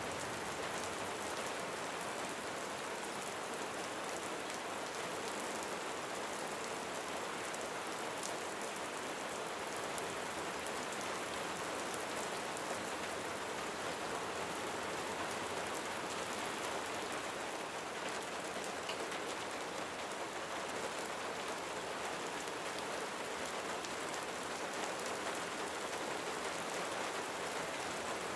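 Steady rain falling on a roof, a dense even patter of drops with no thunder.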